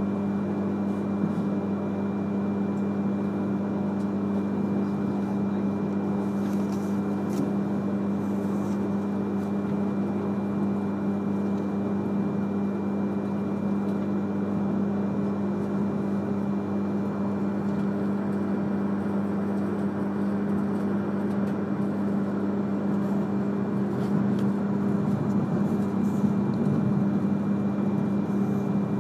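Inside an E3-series Shinkansen train running on the line: a steady drone with a strong low hum and a faint high whine, a few faint clicks, and a little louder near the end.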